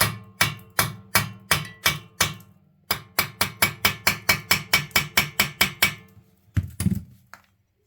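A hammer striking metal in a fast, even run of blows with a ringing tone under them, at about three a second, then after a short pause about four a second. Two duller, heavier blows come near the end. The blows are knocking a stuck part free at the reed cage of a Yamaha RT100's two-stroke motor.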